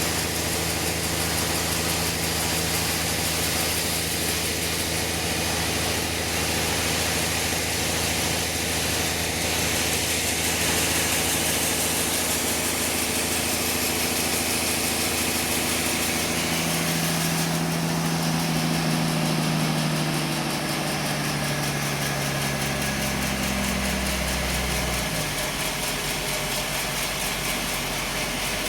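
Sawmill machinery running steadily. From about two-thirds of the way in, its motor slows in a falling pitch and cuts out, leaving a steadier hum and noise.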